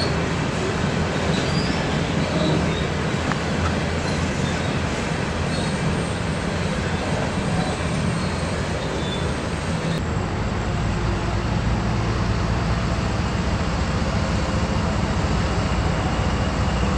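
A freight train rolling past, with a steady rumble of cars on the rails. About ten seconds in, the sound shifts to a deeper, heavier rumble.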